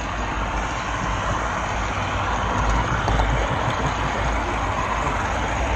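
Model railroad camera car rolling along the track: a steady, noisy rumble of wheels and drive picked up by the onboard camera.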